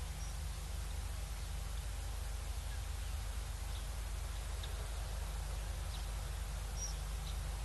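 Steady low hum and hiss of a wildlife live-stream camera's outdoor microphone, with a few faint, short high chirps of small birds scattered through.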